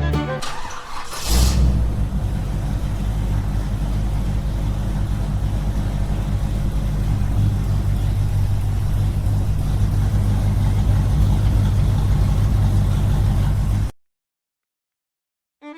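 Small engine running steadily with a heavy low rumble, after a short whoosh about a second in; it cuts off abruptly near the end.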